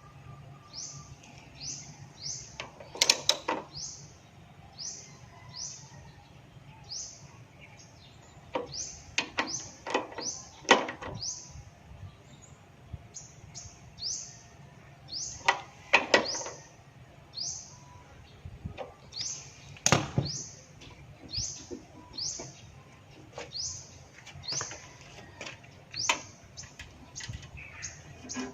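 A bird chirping over and over, a short high chirp about once or twice a second, with scattered clinks and knocks in between.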